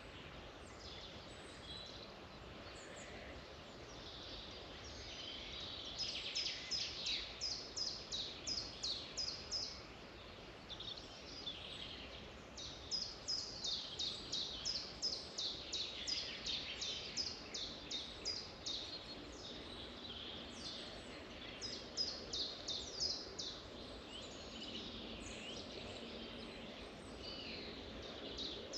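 Several songbirds singing and calling together over a steady background hiss. One bird repeats a quick series of high notes, about three a second, in two long runs.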